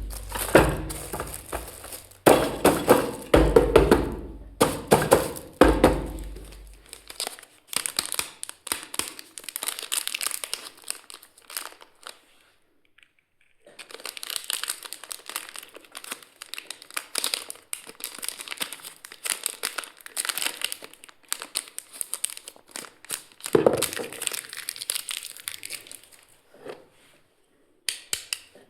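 Plastic packaging crinkling and tearing as a toy kitchen set is unboxed, in irregular rustles and clicks with a short pause about halfway through. There are heavier knocks and thuds from handling the pieces in the first few seconds.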